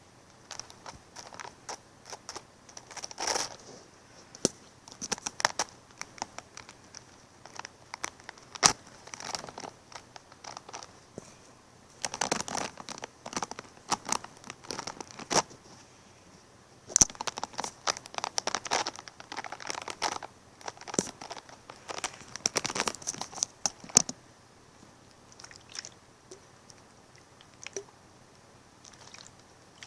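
Irregular crinkling and crunching, sharp crackles coming in bunches with short quiet gaps, fading to sparse clicks near the end.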